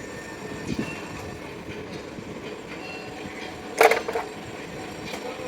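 Metal-on-metal workshop clanking during heavy truck axle repair: a steady background clatter with brief high squeaks, a lighter knock just under a second in, and one loud ringing metal clank about four seconds in.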